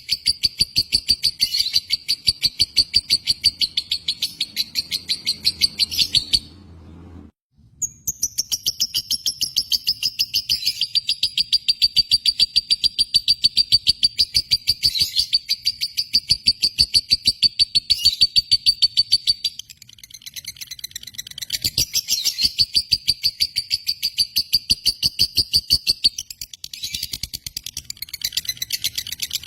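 Lovebird's long, rapid chattering song: a fast, unbroken run of shrill chirps, stopping briefly about seven seconds in and then starting again.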